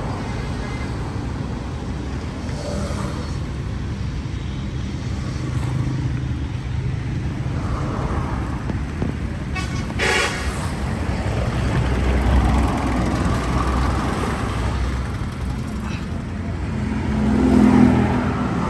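Passing road traffic with a steady engine and tyre rumble. A short vehicle horn toot comes about ten seconds in, and a vehicle passes close near the end.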